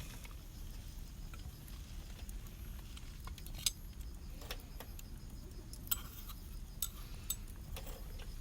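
A few sharp, light clinks of cooking utensils against pans or tableware, scattered about a second or two apart, over a steady low rumble.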